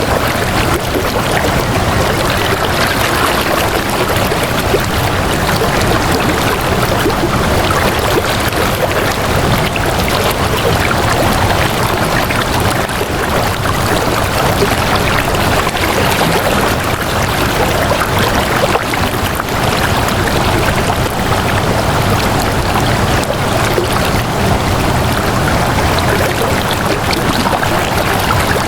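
Water flowing steadily, an even, unbroken rush with no pauses or separate splashes.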